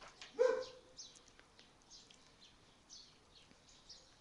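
Small birds chirping on and off in short high notes, with one brief louder pitched call about half a second in.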